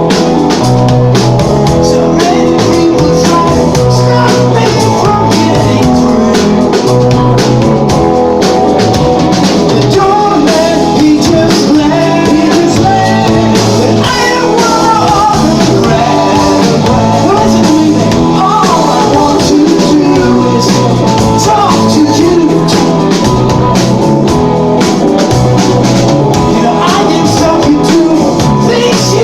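Rock band playing a song, with a drum kit, guitar, and a singing voice coming in about ten seconds in.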